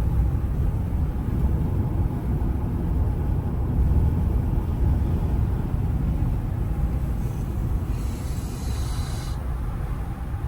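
Steady low road and engine rumble from inside a moving truck's cab, with a short hiss near the end.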